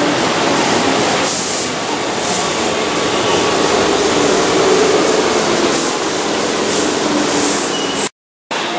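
Keihan electric commuter train running away around a curve: a steady rumble of wheels on rail with a low hum and several brief high hisses. The sound drops out suddenly near the end.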